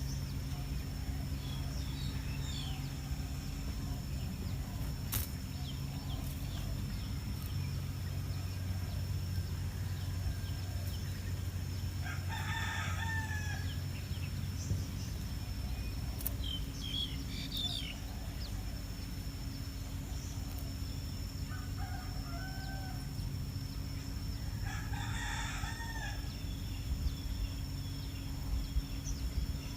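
A rooster crowing twice, about twelve seconds in and again near twenty-five seconds, with a few shorter bird chirps in between, over a steady low hum and a thin high steady tone.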